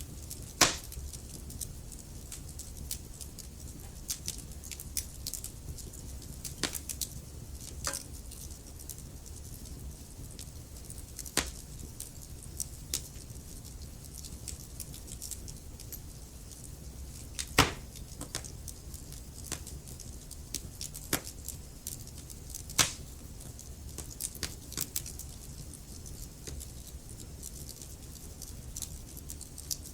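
Wood fire crackling: scattered sharp pops and snaps over a low steady rumble of the burning fire, with a few louder pops, one about half a second in and two more a little past halfway.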